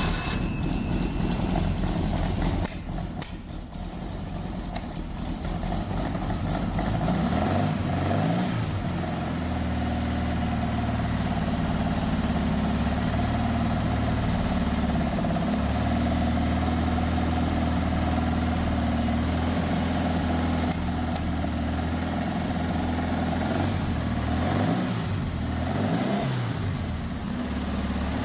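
A 1967 Porsche 912's air-cooled flat-four engine running on the stand just after starting. It falters about three seconds in, then picks up and runs steadily, and its speed wavers near the end as it is asked to idle. The engine is still cold, which is the mechanic's guess for the uneven idle.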